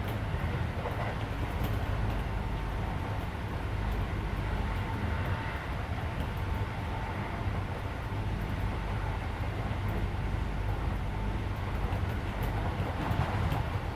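Running noise heard inside a Keisei 3400 series electric train car: a steady rumble of the wheels on the rail and the car's motion, with the car's air conditioning running underneath.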